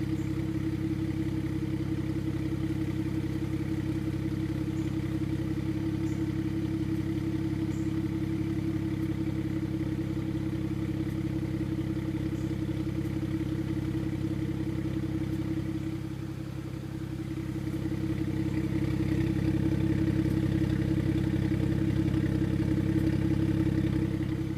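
BMW N54 twin-turbo inline-six idling steadily on a cold start. It dips in level about two-thirds of the way through, then comes back a little louder.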